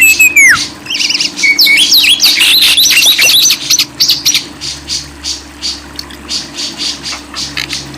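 Songbird calling: a clear rising-and-falling whistle, then a burst of rapid chirps and trills, then a run of short sharp chirps, about three or four a second. A steady low hum lies underneath.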